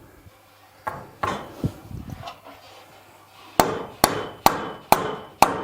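Hammer blows driving in a dynabolt masonry anchor: a few scattered knocks, then from about three and a half seconds in a steady run of sharp strikes about two a second, each with a brief metallic ring.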